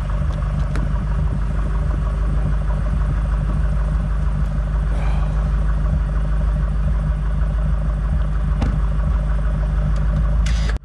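BMW M8 Competition's twin-turbo V8 idling steadily, warmed up after a couple of minutes of running, with a few faint clicks over it.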